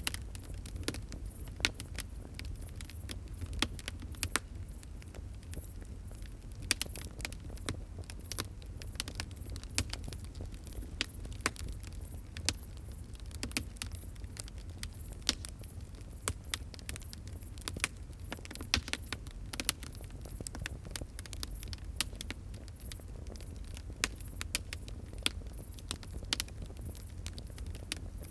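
Fire crackling: many irregular sharp pops and snaps, some louder than others, over a steady low rumble.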